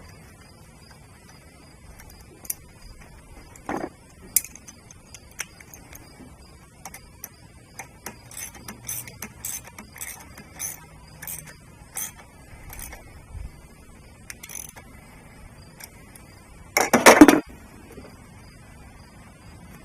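Hand tools working on hose connections: scattered light clicks and knocks, then a run of light clicks at about two a second. A louder brief clatter comes near the end.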